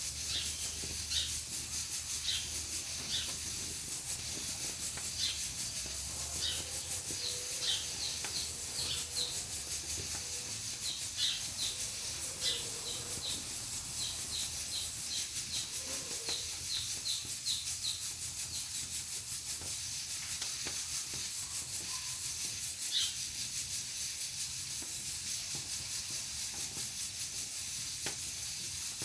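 Pressure cooker on a wood-burning stove hissing steadily as steam escapes. Short high chirps come in quick runs through the first half or more, then only now and then.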